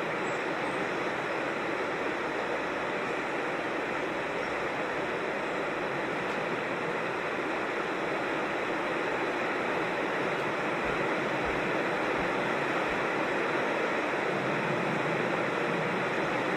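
Creek water rushing steadily, an even hiss that does not change.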